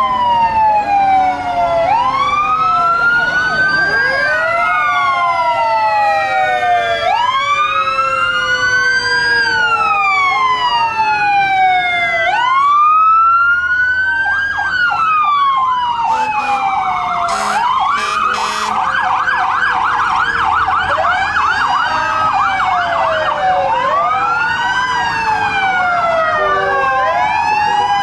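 Several fire truck sirens wailing at once, their pitches rising and falling out of step with each other. From about halfway through, one switches to a fast yelp for several seconds.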